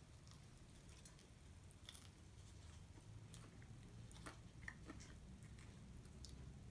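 Faint eating sounds: a few soft crunches and clicks of someone chewing fried chicken, scattered over quiet room tone.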